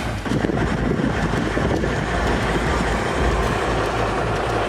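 Heavy recovery machinery's engine running, a steady low rumble.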